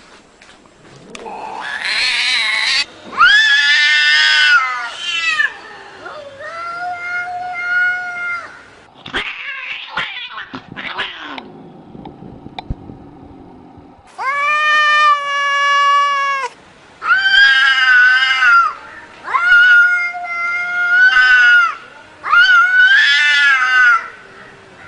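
Domestic cat meowing over and over in long, drawn-out calls, about eight of them, each held for a second or two.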